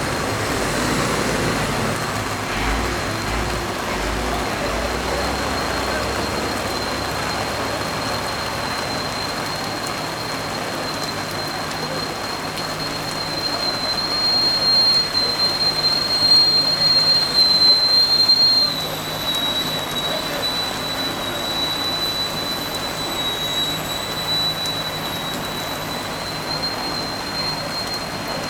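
Steady hissing rush of water spraying from fire hoses onto a large burning building, with a thin, steady high whine running under it. The rush grows louder and rougher from about fourteen seconds in, then drops back a little after nineteen seconds.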